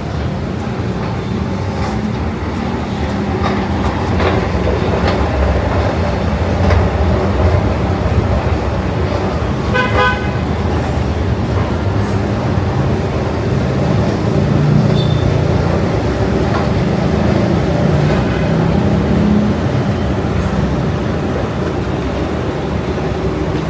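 Road traffic running past, a steady rumble of engines and tyres, with a short horn toot about ten seconds in.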